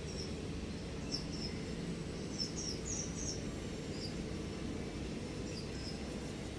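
Small birds chirping: short, high chirps in scattered clusters, thickest in the middle, over a steady low outdoor hum.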